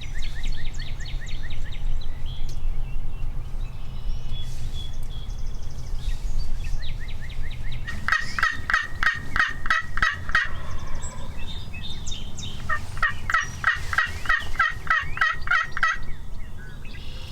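Turkey calls: three runs of rapid, high repeated notes. The first run is short, right at the start, and two longer runs begin about eight and about thirteen seconds in.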